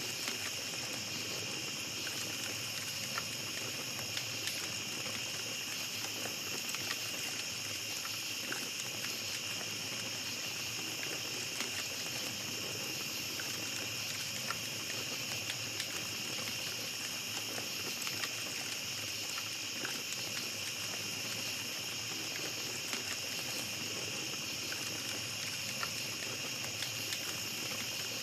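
Small campfire crackling with scattered pops over a steady high chorus of night insects.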